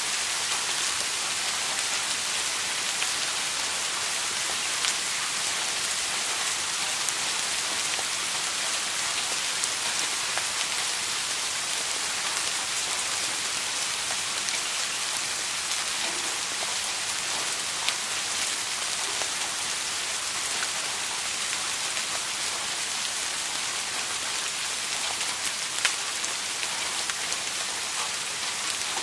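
Steady rain with scattered individual drops ticking against a surface.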